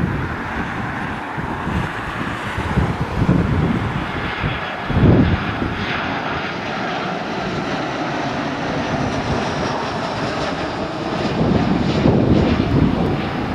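Airbus A319's CFM56 turbofan engines as the airliner comes in to land: a steady jet rumble with a faint high whine that falls slowly in pitch as it passes. Wind buffets the microphone.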